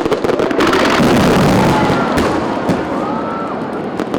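Fireworks bursting in a rapid barrage: a dense run of overlapping bangs and crackling with no break.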